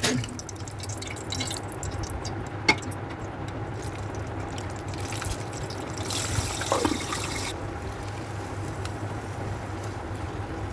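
Mombar frying in hot oil in a lidded pan: steady crackling and popping, with one sharp pop about two and a half seconds in and a stronger hiss for a second or so past the middle.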